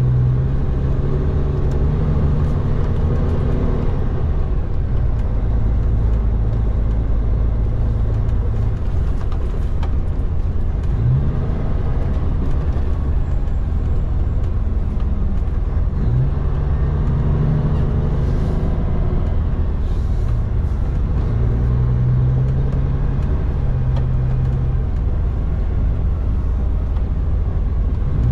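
Road train prime mover's diesel engine running while the truck manoeuvres at low speed, its note rising several times as it is revved up through the gears.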